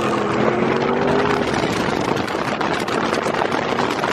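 Car engine running hard as a car launches from a countdown start in a street race. The engine note holds for about a second and a half, then gives way to a loud rushing noise.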